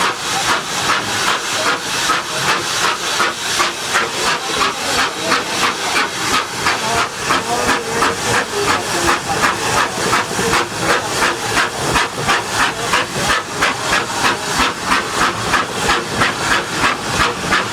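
Steam rack locomotive (Schynige Platte Bahn's 1894 SLM Class H2/3 0-4-2T) working steadily, its exhaust chuffing in an even hissing beat about two to three times a second.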